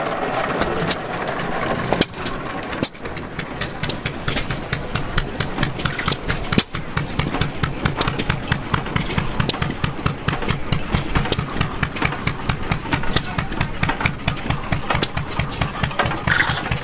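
Antique gas engine running with a rapid, even exhaust beat.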